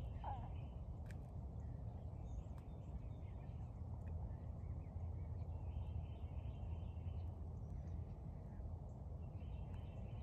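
Steady low outdoor rumble with faint, distant bird chirping coming and going, and one brief squeak just after the start.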